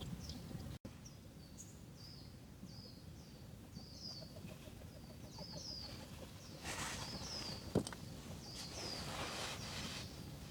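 A small bird calling in the forest, repeating short high chirps about twice a second. Rustling noise comes twice in the second half, with a single sharp click near the end.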